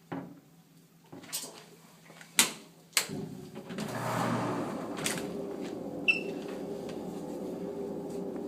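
A few sharp clicks and knocks, then a fume hood's ventilation fan starting up and running with a steady whooshing hum.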